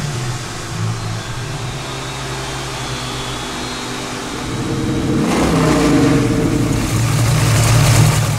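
GM Performance Parts 502 cubic-inch big-block V8 running at idle, then revved from about five seconds in, loudest near the end.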